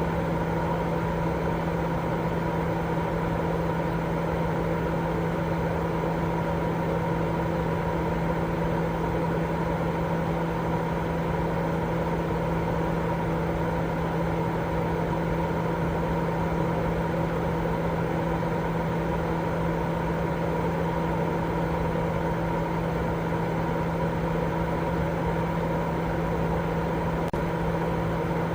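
Continuous white noise for baby sleep: an even, unchanging droning hiss with a steady low hum running through it, more like a fan or appliance motor than bright hiss.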